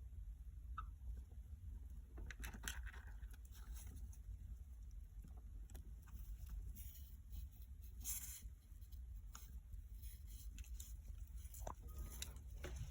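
Caique parrot clambering through a houseplant and tearing at its leaves: faint, scattered rustles, crackles and scrapes over a low steady hum.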